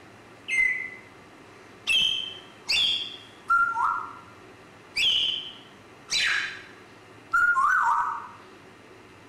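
African grey parrot giving a string of short whistles and calls, about one a second, several of them sliding down in pitch.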